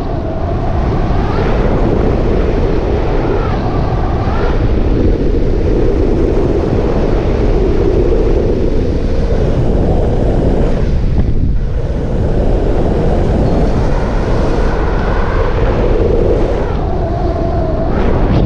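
Belt-driven paramotor engine and propeller running, its pitch rising and falling in places, under heavy wind noise on the microphone.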